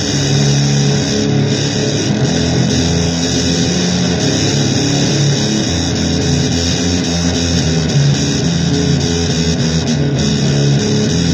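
Loud, heavily distorted electric guitar playing a noisy blues, dense and continuous, with low notes shifting underneath every second or so.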